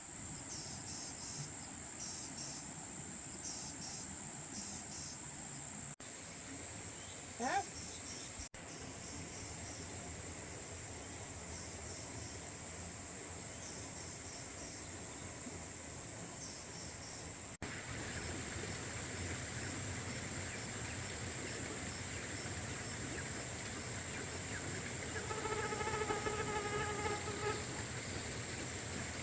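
Insects keeping up a steady high-pitched drone, with groups of rapid chirping in the first half. A short rising call comes about seven seconds in, and a held, pitched call near the end.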